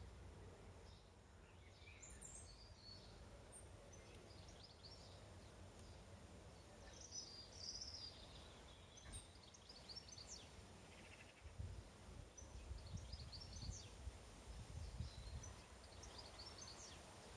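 Faint birdsong: many short chirps and trills from small birds, scattered throughout, over an uneven low rumble.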